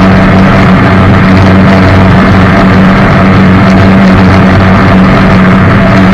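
Jet boat engine running steadily and very loud, a constant drone with no change in pitch.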